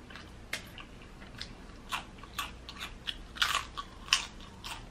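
Close-up crunching of tortilla chips being bitten and chewed: a run of irregular sharp crunches, the loudest a little past the middle.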